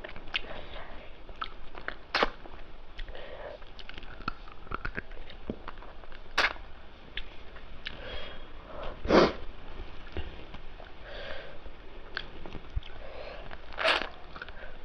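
A person eating: scattered small clicks and mouth noises of chewing, with several short sniffs, the loudest about nine seconds in, as from eating very spicy food.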